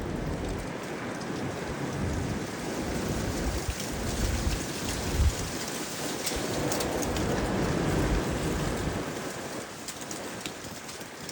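Strong windstorm gusts of about 55 mph, rushing and buffeting the microphone in uneven surges. The gusts build through the middle and ease off near the end.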